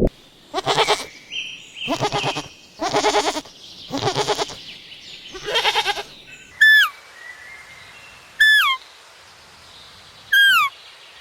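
Five bleats in a row, each a wavering, quavering call, from sheep or goats. Then a bird's whistled call: a short falling note, three times, about two seconds apart.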